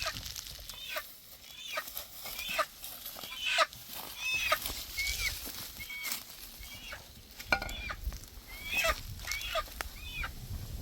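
Bird calls: a series of short, high chirps, each sweeping down in pitch, repeated irregularly. There are scattered sharp clicks, the loudest about seven and a half seconds in.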